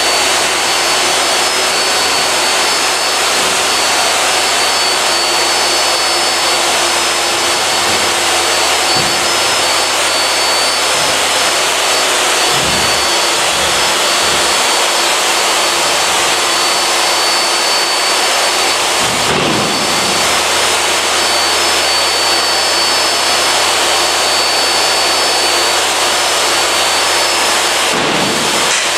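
Steady, loud rushing noise of a machine running without change, with a faint steady whine on top; a few soft low bumps come through around the middle.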